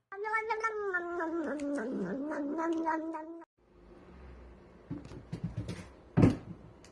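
A cat giving one long, wavering meow of about three seconds that cuts off abruptly. A few seconds later come a few light knocks and one loud thump.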